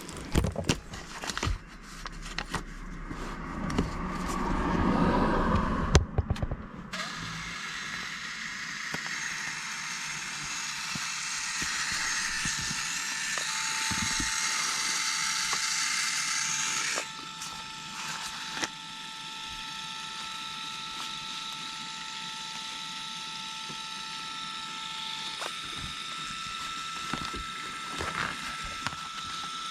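A small motorised mechanism: a few clicks, then a steady whir with a thin steady whine that starts about halfway through and keeps going.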